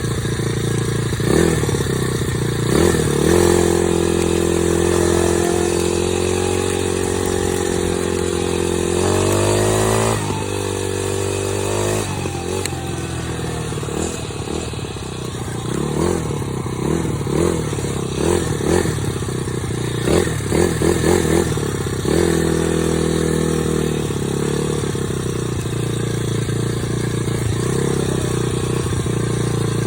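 Dirt bike engine running while riding, its pitch rising and falling with the throttle and gear changes. About nine seconds in it climbs steeply in pitch, and between about sixteen and twenty-two seconds it gives a string of short revs.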